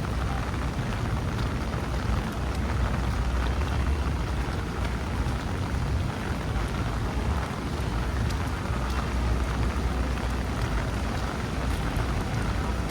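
Steady rain falling on a city street, with a constant low rumble underneath and scattered faint ticks of drops.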